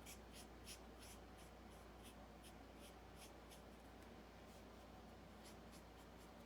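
Faint strokes of a Stampin' Blends alcohol marker on paper, short repeated scratchy swishes as the tip colours in an area, pausing now and then.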